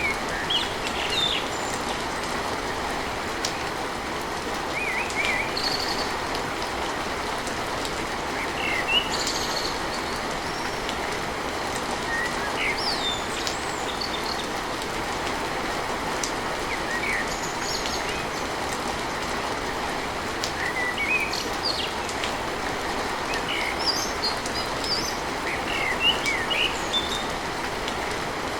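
Steady rain pattering, with birds chirping in short scattered calls throughout.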